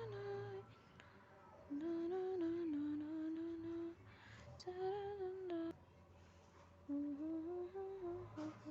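A person humming a slow tune without words, in three short phrases with brief pauses between them.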